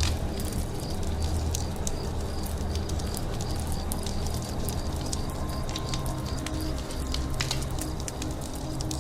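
Wood campfire crackling, with scattered sharp pops over a steady low rumble, while birds call in the forest around it and a soft high ticking call repeats two or three times a second.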